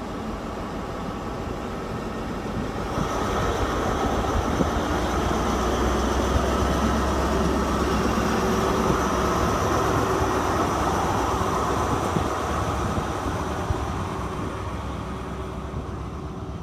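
Grand Central High Speed Train with class 43 diesel power car 43423 pulling out: a low steady engine drone with wheel and rail noise that builds about three seconds in, holds through the middle and eases off near the end.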